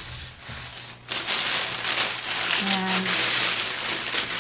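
Plastic food packaging crinkling and crackling as it is handled, beginning about a second in.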